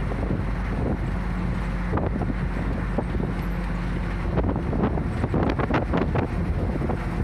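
Steady drone of a route bus's engine and road noise, heard from on board. A steady hum of the engine note drops out about four seconds in, and the second half is dotted with quick rattles and knocks.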